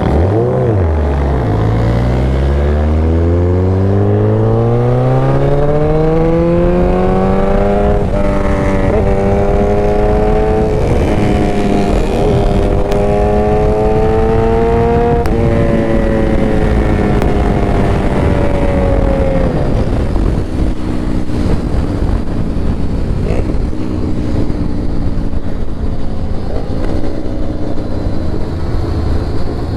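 Motorcycle engine accelerating hard, its pitch climbing and stepping through several gear changes, then falling back as it slows and settling to a lower steady run. Heavy rushing wind noise on the microphone runs underneath.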